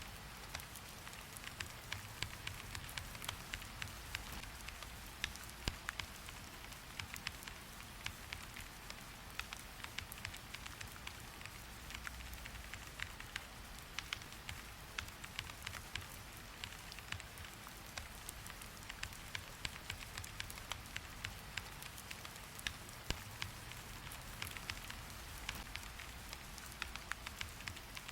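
Steady rain hiss with many irregular sharp ticks and clicks scattered through it.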